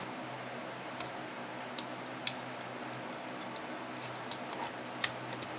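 A few sharp, scattered clicks and taps of small tools and plastic parts being handled while a toy prop's barrel spring is taken out and trimmed, over a steady low electrical hum.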